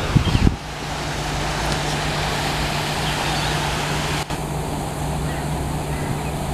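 Steady outdoor background noise, an even hiss-like haze with a faint low hum, broken by a few low thumps about half a second in.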